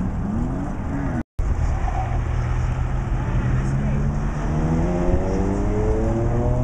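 Distant BMW E92 M3 V8 engine accelerating hard, its pitch rising steadily from about halfway in, over a steady rumble of wind on the microphone. Just over a second in, the sound drops out briefly at an edit cut.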